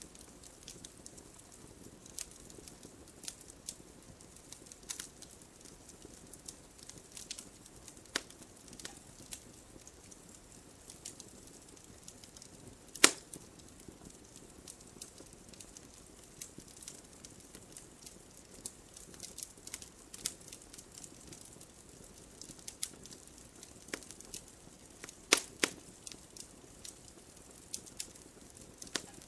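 Campfire burning with a soft steady hiss and scattered pops and crackles at irregular intervals, one sharp pop loudest about halfway through and a close pair a little later.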